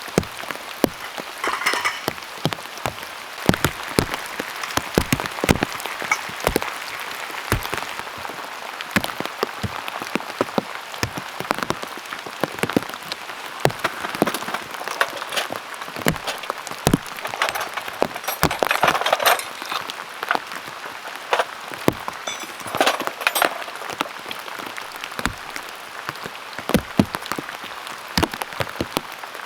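Heavy rain falling steadily, with many large drops striking a surface in loud, irregular taps.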